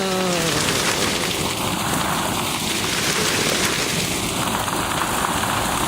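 Hail pelting down steadily: a dense, even clatter of countless small impacts.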